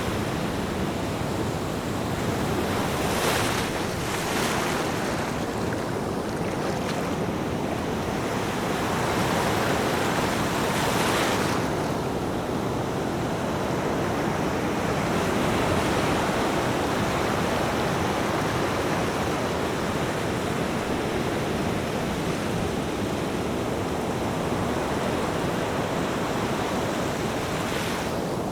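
Ocean waves washing onto the shore in a steady roar of surf, with a few sharper hissing surges as waves break, around three, four and eleven seconds in and again near the end. Some wind buffets the microphone.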